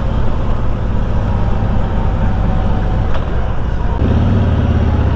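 2021 Harley-Davidson Tri Glide Ultra trike's Milwaukee-Eight 114 V-twin running under way, a steady low engine note under wind and road noise. A short click comes about three seconds in. About four seconds in, the wind noise drops and the engine note comes forward as the trike nears an intersection.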